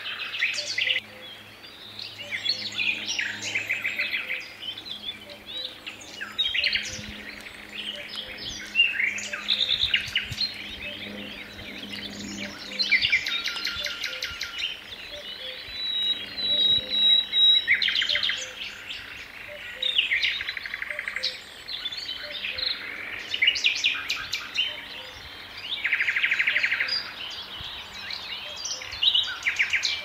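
Several songbirds singing in a forest, an overlapping chorus of chirping phrases and rapid trills.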